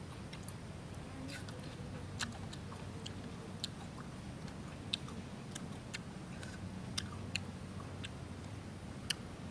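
A person chewing crisp star fruit, with sharp, irregular clicks and crunches scattered through, a few of them louder than the rest.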